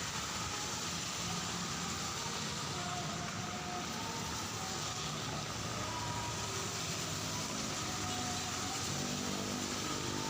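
Steady hiss of heavy rain falling, with road traffic engines running under it and growing a little stronger near the end.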